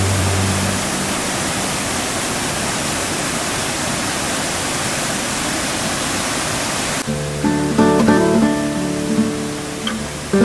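Steady rushing of a waterfall, with the last notes of a song fading in the first second. About seven seconds in, the water sound cuts off suddenly and plucked acoustic guitar music begins.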